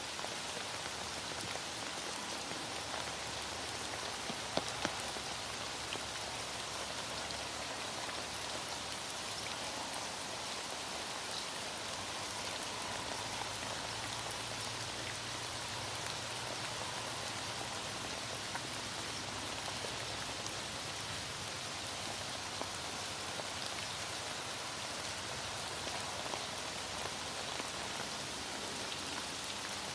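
Heavy rain falling steadily, with a few faint ticks about four to five seconds in.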